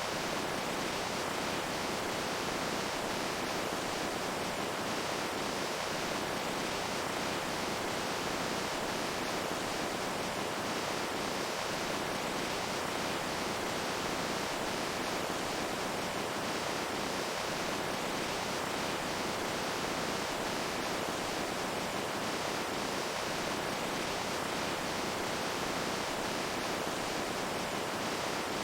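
Rushing water, a steady, even hiss with no single splash or drop standing out.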